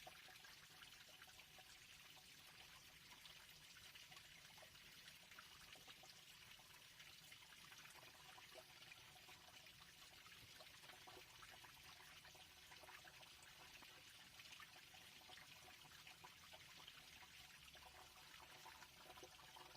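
Near silence: a faint, steady hiss with tiny crackles.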